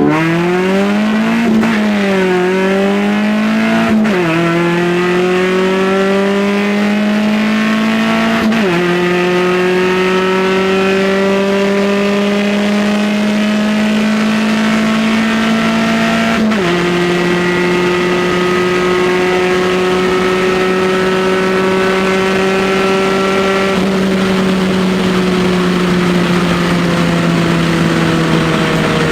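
Integra's Honda B20 four-cylinder engine pulling gently up through the gears. Its pitch climbs slowly in each gear and drops at upshifts about four, nine and sixteen seconds in. After that it holds a steady cruise and eases off slightly near the end.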